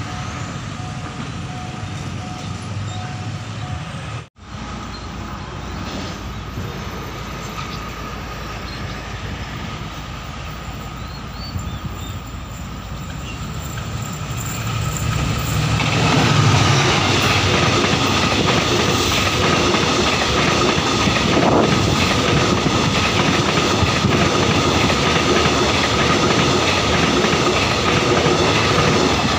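Diesel-hauled passenger train approaching and passing close by, its noise swelling over a few seconds and then staying loud, with wheels clacking over the rail joints. Before a cut about four seconds in, a repeating beep from the level crossing over passing motorbike traffic.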